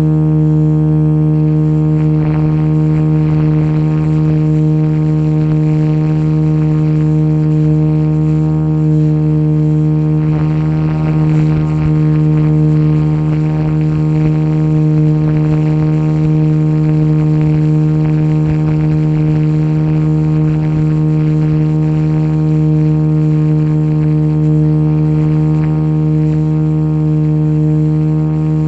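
Radio-controlled JetRanger model helicopter running at a constant rotor speed: a steady, unchanging buzzing drone.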